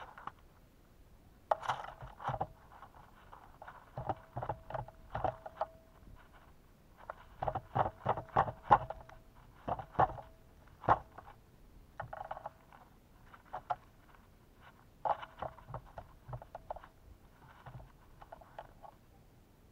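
Birds pecking and scrabbling at a bird feeder close to the microphone: irregular clusters of sharp taps and clicks.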